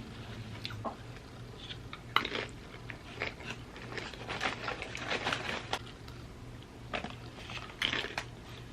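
Close-up chewing and crunching of chips: irregular crisp crunches with softer chewing between, the sharpest crunch about two seconds in.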